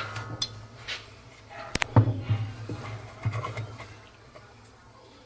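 A few sharp metallic clicks and light knocks from tools being handled at a washing machine, over a low steady hum. The sharpest click comes a little under two seconds in, and the handling noises die away in the last second or so.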